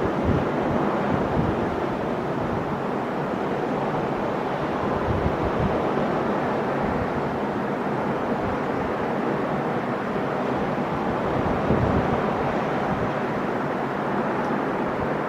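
Sea waves breaking and washing in steadily on the shore, with gusts of wind buffeting the microphone a few times.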